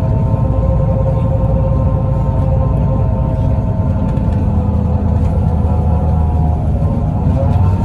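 Scania L94UB city bus with a 9-litre six-cylinder Scania DSC9 diesel and ZF Ecomat automatic, heard on board while driving: a steady engine rumble with a whine that rises in pitch near the end. The bus sounds unhealthy to its regular rider.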